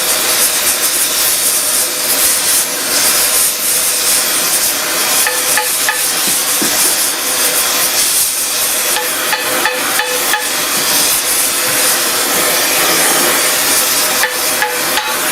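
Gas torch burning with a steady hiss, heating a bearing race so it expands and loosens from its taper lock while the shaft is rolled. A few light taps come near the end.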